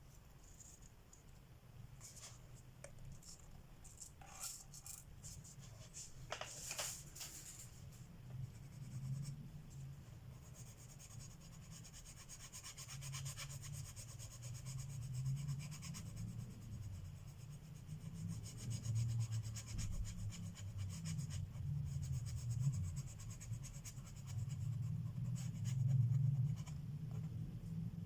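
Colored pencil shading on paper: rapid, scratchy back-and-forth strokes that run steadily from about ten seconds in. A few light taps come before them.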